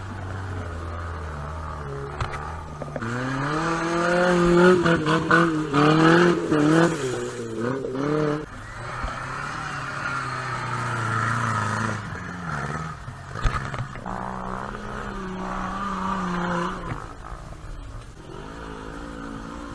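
Off-road vehicle engine revving hard under load, its pitch climbing and wavering, with a few sharp knocks, then running steadier at lower revs and easing off near the end.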